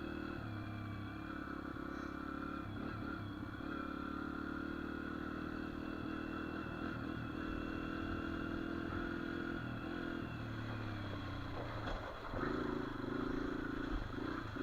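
Dirt bike engine running as the bike rides along at a steady throttle, its note dipping and then picking up again about eleven to twelve seconds in.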